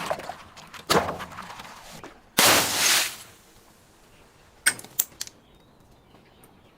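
Hard objects being smashed: a sharp knock about a second in, then a loud crash lasting about half a second, then two light clicks a few seconds later.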